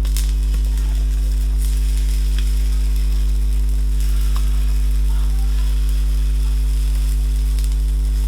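Pumpkin fritter batter sizzling in hot coconut oil in a frying pan, with faint scattered crackles, under a loud steady electrical mains hum.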